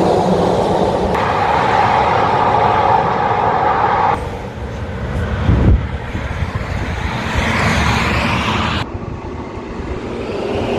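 Road traffic noise from cars on a highway. The sound changes abruptly about a second, four seconds and nine seconds in, and there is a brief low thump about five and a half seconds in.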